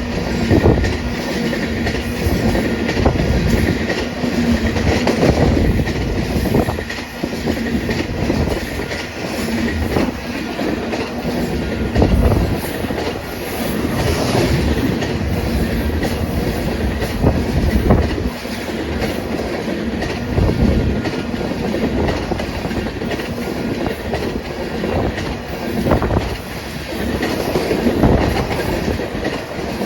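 Freight train cars rolling past, their wheels clacking over rail joints in a steady rumble, with louder knocks now and then.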